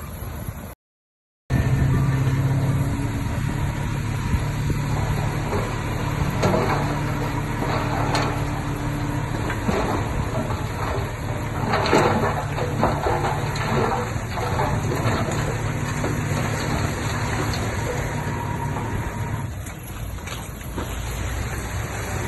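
Bulldozer diesel engine running steadily under work, with scattered metallic clanks of the tracks or blade. The sound cuts out completely for under a second near the start.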